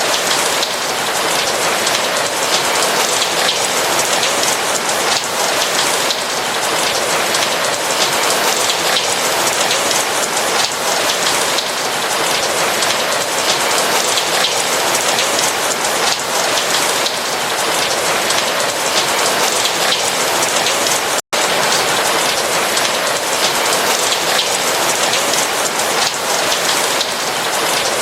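Steady rain falling on a roof, a dense even hiss of drops. It cuts out for a split second about three-quarters of the way through.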